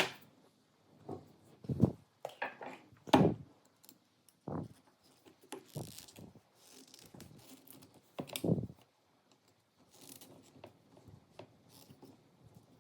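Irregular knocks, clinks and scrapes of metal parts and tools being handled, the loudest near the start and about 2, 3 and 8.5 seconds in.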